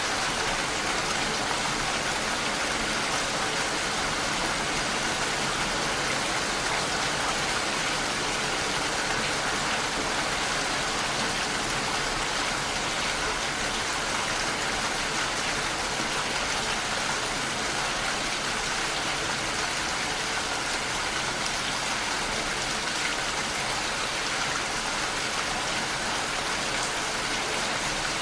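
Steady rain falling against a window, an even hiss of drops that holds at one level throughout.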